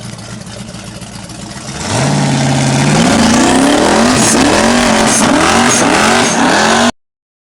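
Twin-turbocharged LT1 small-block V8 of a Buick Roadmaster running steadily, then opening up about two seconds in and accelerating hard, its revs climbing and falling again and again. The sound cuts off abruptly near the end.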